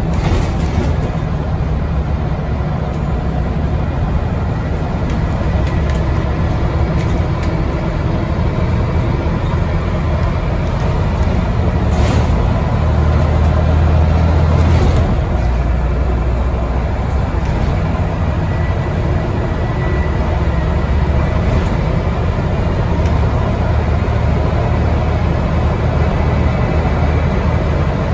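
Scania N94UD double-decker bus heard from inside the cabin, its engine and ZF automatic gearbox running steadily under way, with road noise. The engine drone swells a little about halfway through, and a couple of brief sharp knocks come from the bodywork.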